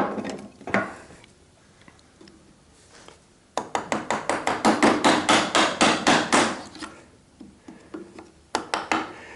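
Wood chisel being struck hard again and again to chop a lump of waste off a mortise and tenon joint. One knock comes about a second in, then a fast run of about six blows a second for some three seconds, and a few more blows near the end.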